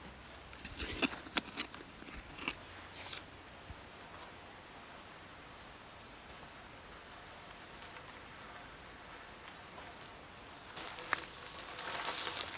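Woodland sound with scattered sharp snaps and knocks in the first few seconds, then a quiet stretch with faint short bird chirps. A denser rustling starts near the end.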